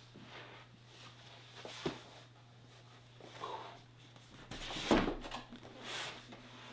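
Scattered knocks and rustles over a steady low hum, the loudest knock about five seconds in.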